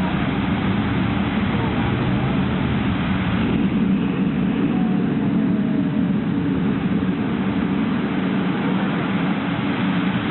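Steady low rumbling roar from the Mirage's artificial volcano show.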